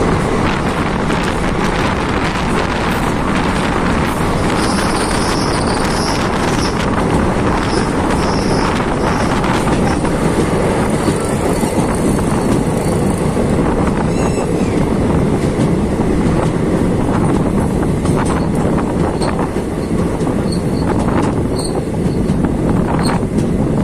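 Passenger train running at speed, heard from an open coach doorway: a steady rumble and clatter of the coach wheels on the rails with air rushing past. A few brief high-pitched squeals come about five to nine seconds in.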